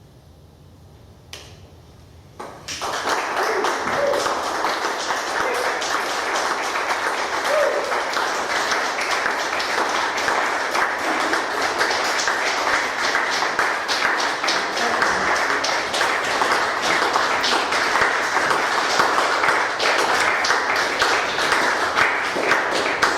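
A moment of quiet after the music stops, then audience applause breaks out about two and a half seconds in and carries on steadily.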